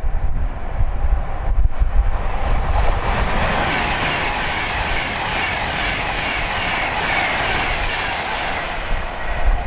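A train passing on the main line: a rush of wheels on rail that builds about two seconds in, holds, and fades near the end. Heavy wind buffets the microphone throughout.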